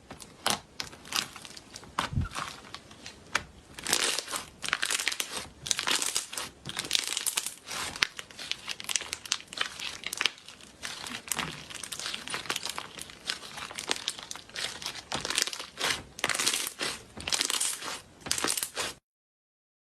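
Slime being squeezed and worked by hand, giving dense, irregular clicking and crackling pops. The sound stops abruptly near the end.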